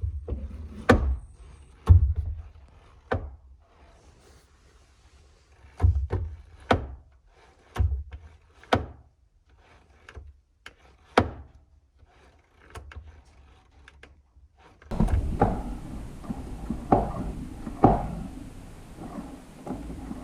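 A series of sharp knocks and clunks, irregular and roughly a second apart, from hands-on work on the car's clutch installation. A steady background noise joins about fifteen seconds in, under a few more knocks.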